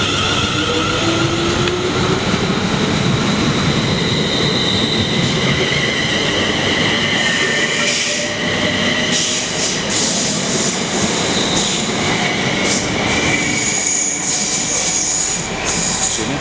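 British Rail Class 350 electric multiple unit moving through the station, running loudly with several high whining tones that drift in pitch. Short bursts of hiss come in about halfway through.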